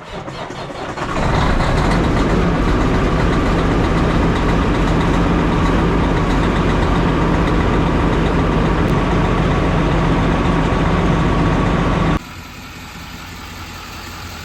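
Straight-piped truck engine running loud and steady, coming up to full loudness about a second in. Near the end it cuts off abruptly to a much quieter engine sound.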